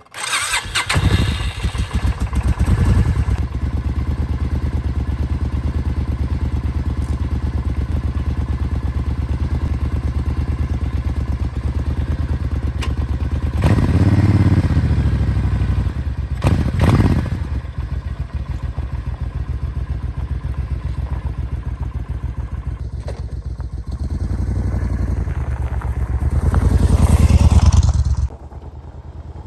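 Suzuki Intruder 1400 V-twin motorcycle engine starting and idling with an even, loping beat. The throttle is blipped twice around the middle. Near the end the revs rise, then drop off suddenly.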